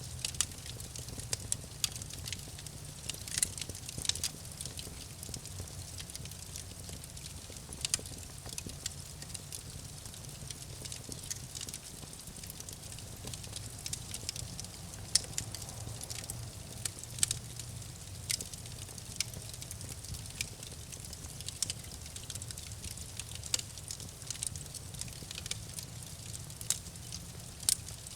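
Campfire burning with irregular sharp crackles and pops over a steady low rumble of flames.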